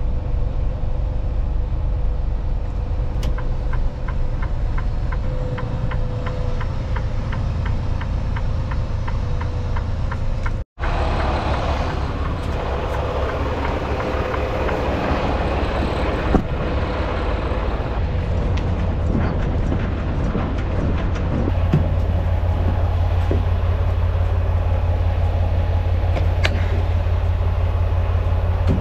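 Semi-truck's diesel engine running with road rumble, as heard inside the cab while driving; a steady low drone that gets somewhat louder a little past twenty seconds in. Early on there is an even ticking for several seconds, and the sound drops out for an instant just over ten seconds in.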